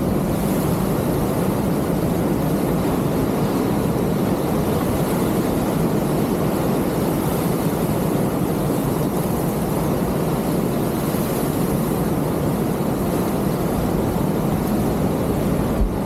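Steady, loud rushing noise of wind buffeting the microphone mixed with ocean surf on a beach.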